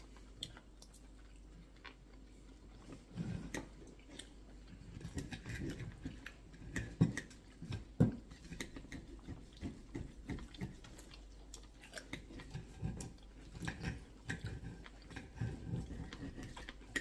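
A person chewing food close to the microphone, with irregular small clicks and smacks, quiet for the first few seconds; two sharper clicks come about seven and eight seconds in.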